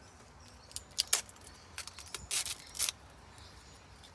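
Vinyl wrap film being handled and cut while covering a plastic car reflector: a quick run of sharp crinkles and clicks between about one and three seconds in.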